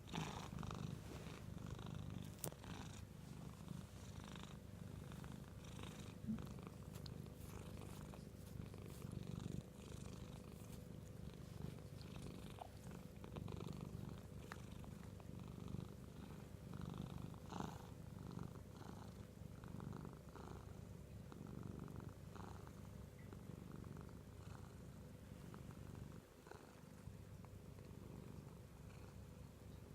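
Domestic cat purring steadily close to the microphone, the purr swelling and easing with each breath.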